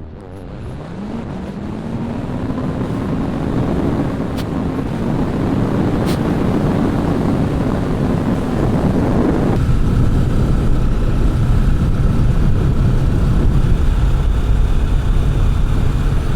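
Kawasaki Vulcan 650 motorcycle's parallel-twin engine pulling under acceleration, its pitch climbing and then holding, with wind noise on the microphone growing steadily louder. About nine and a half seconds in, the engine note drops away and a deep wind rumble takes over.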